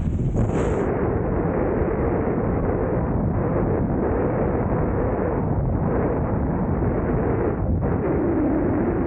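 Wind buffeting the microphone: a loud, steady rumble with no let-up.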